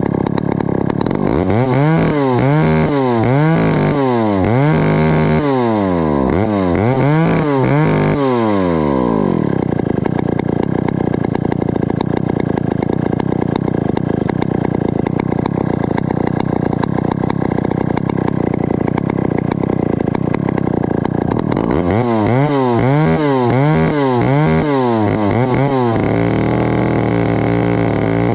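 Stihl 051 two-stroke chainsaw running. The throttle is blipped up and down about six times in quick succession, then the saw holds one steady speed for about twelve seconds, is blipped a few more times, and settles to a lower speed near the end.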